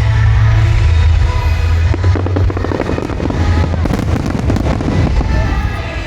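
Fireworks display with music playing: from about two seconds in, dense rapid crackling from many small firework bursts takes over from a heavy bass line.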